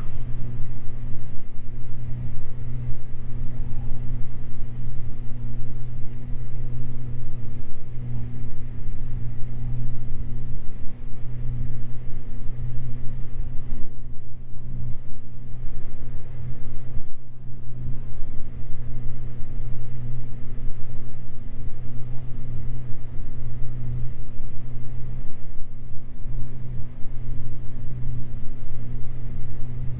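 Twin propeller engines of a Beechcraft G58 Baron droning steadily in the cabin, with a constant low hum and steady overtones. These are the Baron's two Continental IO-550 six-cylinder engines.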